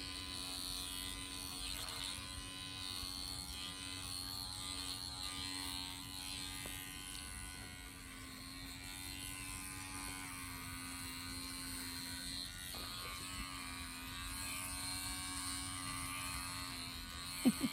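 Electric clippers buzzing steadily as they trim a dog's fur.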